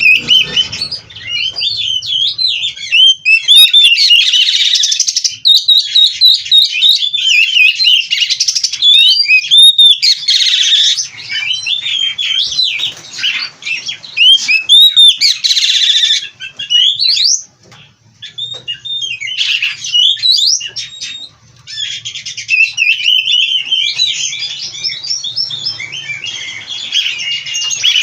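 Oriental magpie-robin singing loudly and almost without pause: a rapid, varied run of whistles, trills and chirps packed with mimicked phrases, broken by a couple of short pauses past the middle.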